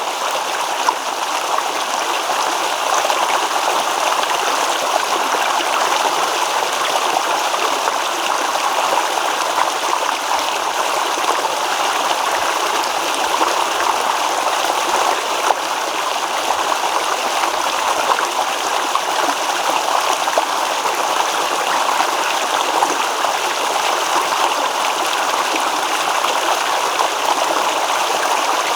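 Small stream babbling and trickling over stones, a steady rush of running water without breaks.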